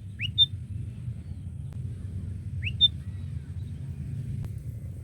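Sooty-headed bulbul (kutilang) calling twice, about two and a half seconds apart: each call is a quick rising note followed by a short sharp higher note. A low steady rumble runs underneath.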